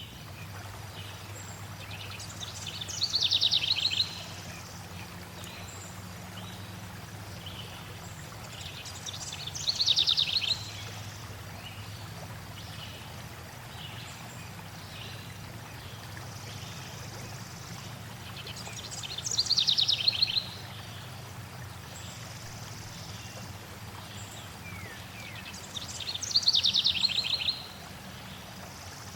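A songbird sings four times, each song a rapid trill of about a second that falls in pitch, over a steady low rush of flowing water.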